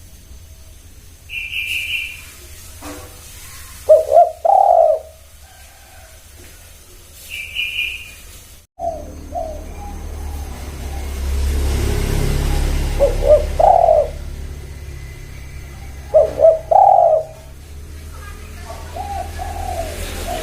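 Spotted doves (tekukur) cooing: three loud rolling coo phrases, about four seconds in, near the middle and again soon after, with two short high chirps from another bird in the first half. A steady low rumble and hiss sits under the calls from about nine seconds in.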